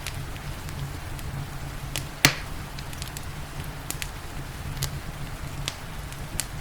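Wood fire crackling in a fireplace: scattered sharp pops, with one loud pop about two seconds in, over a steady low rumble and the even hiss of rain.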